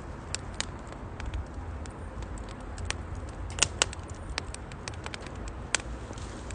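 Wood fire crackling in a UNIFLAME Nature Stove Large, with sharp pops at irregular moments, the loudest two close together about three and a half seconds in, over a steady low background.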